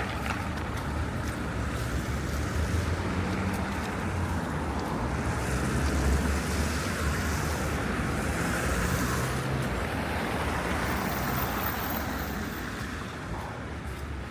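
City street traffic: car engines and tyre noise running steadily, with a vehicle passing close and loudest around six seconds in.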